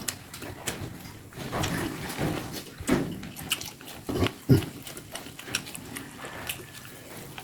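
A person eating with the mouth close to the microphone: chewing, wet lip smacks and irregular clicks, with a few louder soft knocks.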